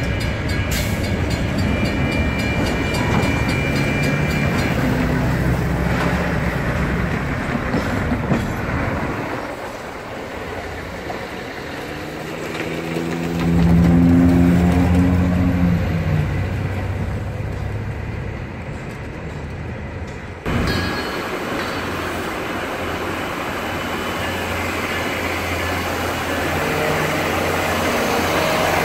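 Covered hopper freight cars rolling past on jointed track, with a steady rumble of wheels on rail. A low pitched drone swells up and fades about halfway through. After a sudden change, Union Pacific 3GS21B genset switcher locomotives are running with a steady low diesel drone.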